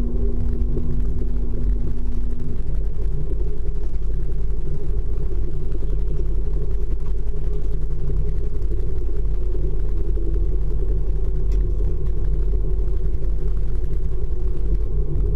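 ICE high-speed train running, heard from inside the carriage: a steady low rumble, with a humming tone that stops about two and a half seconds in.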